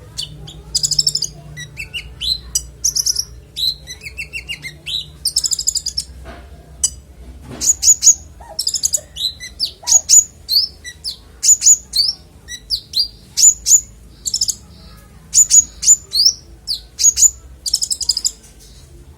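A konin songbird singing a rapid, varied string of high, clear chirps, falling whistles and short trills. These phrases are the bird's repertoire of learned song, or isian.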